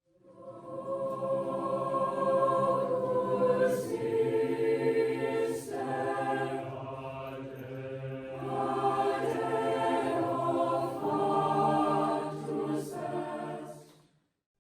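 A choir singing long held notes in several voices, fading in at the start and stopping shortly before the end.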